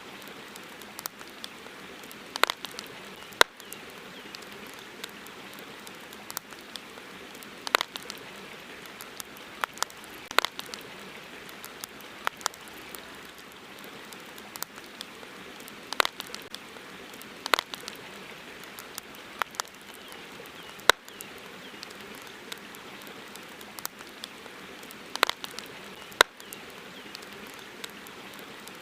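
Campfire crackling: irregular sharp snaps, a few loud pops among them, over a steady hiss.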